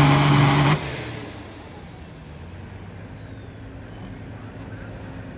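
Pulling tractor's engine running flat out at a steady pitch, cutting off abruptly under a second in, leaving a faint steady background.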